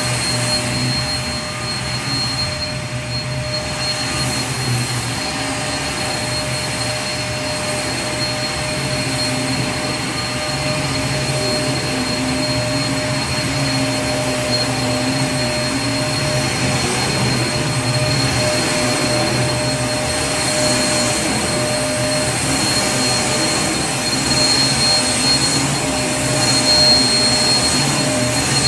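Vacuum cleaner motor running steadily: a continuous rush of air with a steady whine over it.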